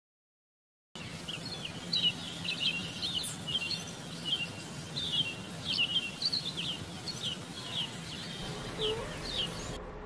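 Small birds chirping in many short, high calls, a few each second, over a steady background hiss. The sound starts abruptly about a second in after silence and cuts off just before the end.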